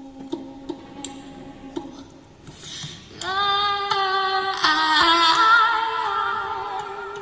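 A woman's singing voice entering about three seconds in with long held notes that waver toward the end, over a low steady drone; before she comes in, only the drone and light regular ticks are heard.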